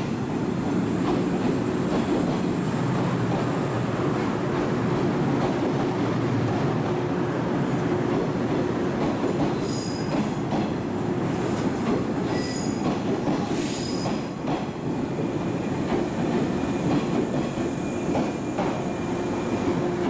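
JR 115 series eight-car electric train rolling through the station, with a steady rumble and the clatter of wheels over rail joints. High-pitched wheel squeals come briefly about halfway through.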